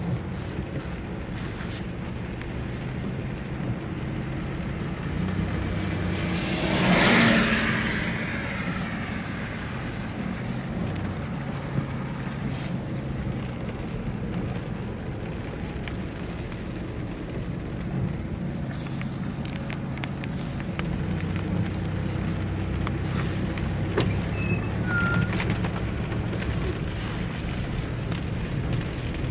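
A car driving on a wet road in the rain: a steady low engine hum under even tyre and rain noise. Around seven seconds in, a louder swell of spray noise rises and falls, and a few sharp ticks come through later.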